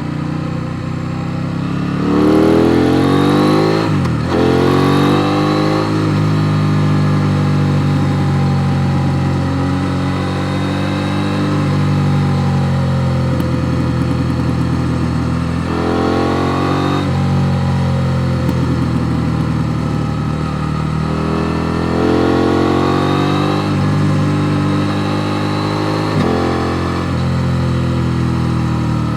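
KTM Duke 890 R's parallel-twin engine under way on the road, revving up through the gears: the pitch climbs, drops sharply about four seconds in at a gear change, climbs again and holds steady, then rises and falls twice more later on.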